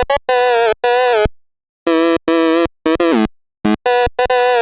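Heavily effect-processed song audio chopped into about eight short, buzzy, synthesizer-like tone bursts. Each burst starts and stops abruptly, with silent gaps between them, and a couple slide down in pitch midway.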